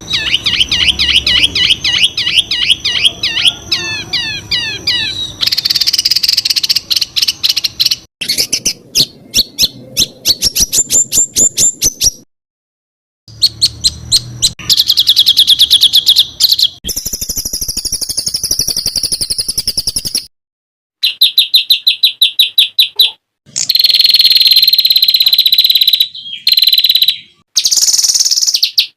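Songbirds singing rapid-fire 'tembakan' phrases: fast volleys of sharp repeated notes, quick downslurred whistles and buzzy trills, high-pitched and loud. It is a spliced training recording, with abrupt cuts and a few moments of dead silence between clips. A long buzzy trill runs through the last few seconds.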